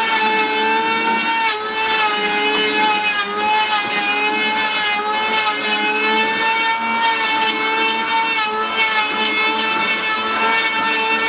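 Electric power tool motor running at steady speed, a high whine with slight wavering in pitch.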